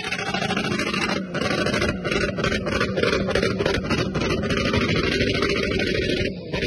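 Motorcycle engines running, with brief dips in level throughout.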